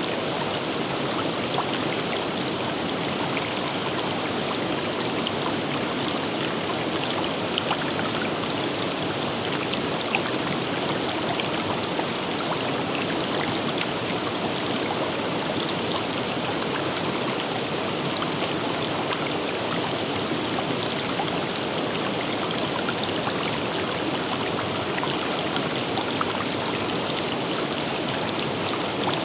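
A river rushing steadily over rocks, with faint splashes and droplets ticking through the flow.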